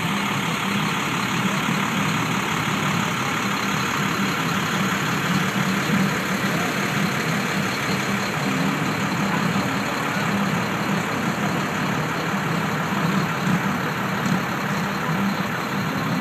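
Harley-Davidson police motorcycle engines running steadily at idle.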